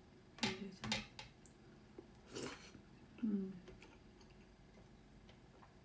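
Close-up mukbang eating sounds of a person eating soft millet dhido with curry. A couple of short wet mouth smacks come near the start, then a short breath about two seconds in, then a brief hummed 'mm' a second later, with quiet chewing between.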